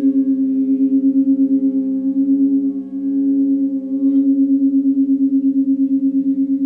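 Singing bowls ringing in long, overlapping tones with a fast wavering pulse, a fresh strike adding bright overtones at the start and again about four seconds in.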